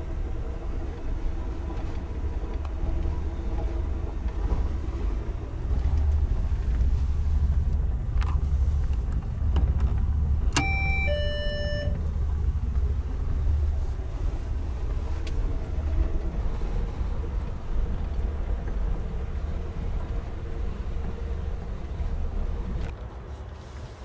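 Steady low rumble of an Amtrak sleeping car rolling along, heard inside the roomette. About ten seconds in, the attendant call button is pulled: a click, then a two-note chime, high then low.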